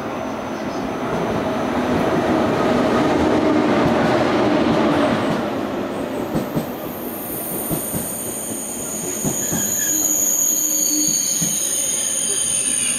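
KTX high-speed train running past a station platform: a rising rush of noise that peaks a few seconds in, a few sharp clacks around the middle, then a high-pitched squeal with several steady tones over the second half as the cars go by.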